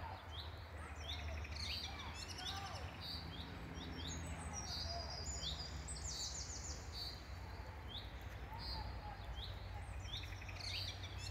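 Several small birds chirping, with many short high calls and quick sweeps overlapping one another, over a steady low rumble.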